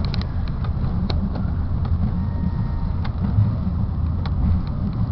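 Steady low rumble of a car driving on a snowy road, heard from inside the cabin, with a few light clicks scattered through it.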